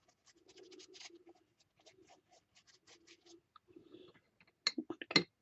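Paintbrush scrubbing and stroking across a paper journal page in a run of soft, repeated scratchy strokes, with a few sharper taps near the end.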